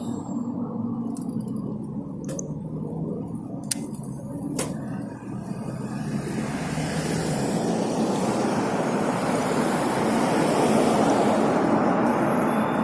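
Motor vehicle running in road traffic, a steady low rumble with a few sharp clicks in the first seconds; about six seconds in, a broad rushing road and wind noise swells up and stays loud.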